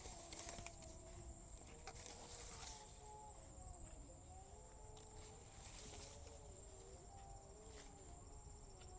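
Faint countryside ambience: a steady high-pitched insect drone throughout, with a few soft footsteps and faint wavering animal calls lower down.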